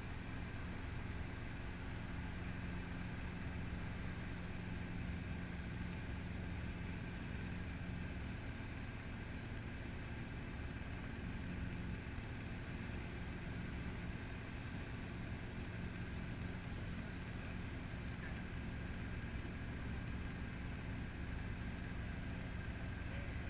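Helicopter running, heard from inside the cabin: a steady engine and rotor drone with a constant low hum that does not change.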